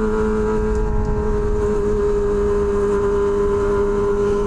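Kawasaki Ninja ZX-25R's inline-four engine running at steady high revs through an SC Project H2 aftermarket exhaust while the bike cruises, with wind rumble on the microphone.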